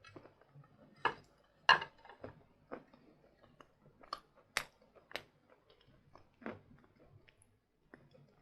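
Close-up chewing and crunching of a bar of hard, dry sawn chalk: irregular sharp crackling crunches, the loudest a little under two seconds in.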